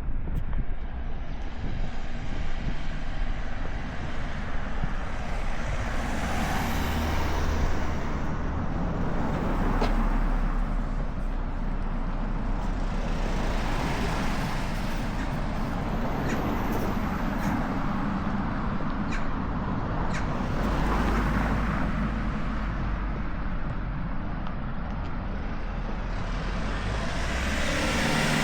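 Road traffic: a steady rumble with vehicles passing one after another, swelling and fading every several seconds.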